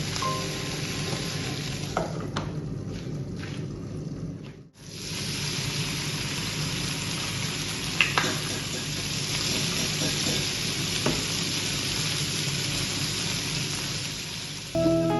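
Food sizzling in a frying pan while it is stirred, with a few sharp clicks of the utensil against the pan. The sizzle drops out briefly about five seconds in, then resumes.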